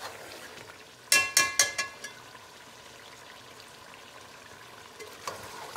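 Chicken and ground nihari masala sizzling as they fry on high flame in an aluminium pot. About a second in, a metal ladle knocks against the pot a few times in quick succession, each knock ringing.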